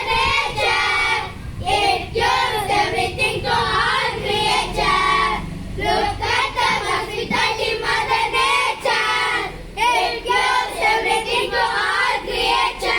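A group of children singing an English poem aloud, line by line, with short pauses between lines.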